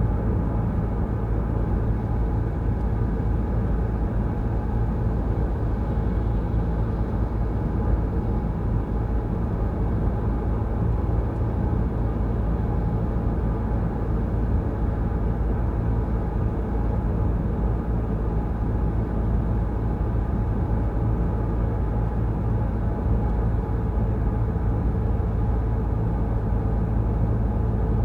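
Peugeot Rifter driving at a steady pace: an even, low rumble of engine and road noise with no changes.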